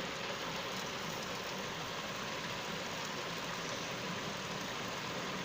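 Steady, even sizzling hiss of garlic and ginger frying in olive oil inside an electric kettle.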